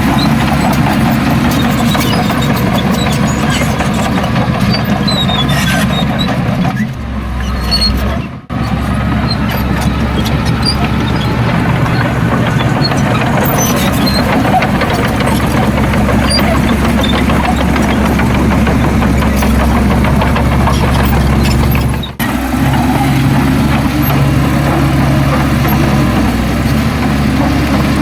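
Heavy diesel earthmoving machinery running steadily, engine drone with a low even beat, briefly dropping away twice, about a third of the way in and again near the end.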